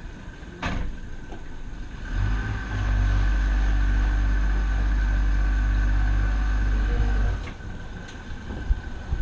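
Boat engine running up to a loud, steady low drone for about five seconds, then easing off again. A sharp click comes about half a second in.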